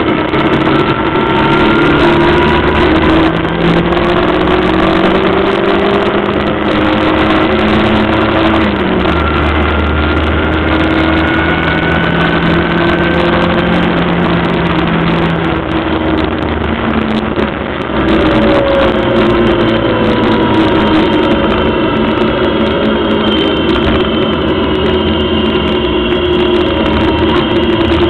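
Onboard sound of a Locost racing car's 1300cc engine under hard load, its note climbing and dropping again and again through the gears. The loudness dips briefly about 18 seconds in, then the engine pulls hard again.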